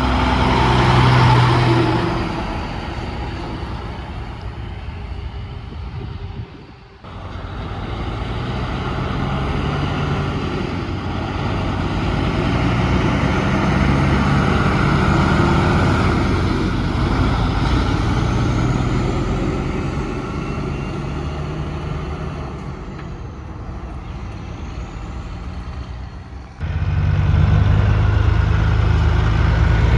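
Heavy trucks' diesel engines running and going by, with steady engine drone over road noise. The sound breaks off and changes abruptly twice, about a quarter of the way in and again near the end.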